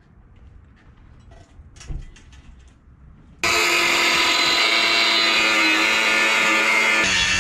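Quiet handling clicks, then a power tool suddenly starts loud about three and a half seconds in and runs at a steady high whine.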